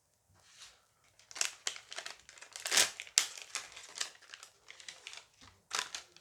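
Foil booster pack crinkling and tearing as it is ripped open by hand: a quick run of crackles and rustles, loudest a little before halfway.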